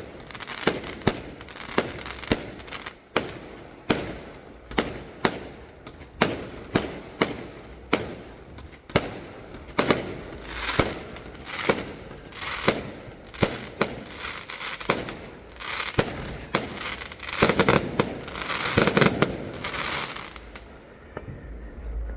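Fireworks going off in a rapid barrage of sharp bangs, about two a second, with stretches of crackle in the second half; the bangs thin out near the end.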